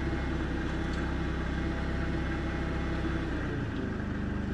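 Forklift engine running steadily as the forklift is driven forward slowly, its note dipping briefly near the end.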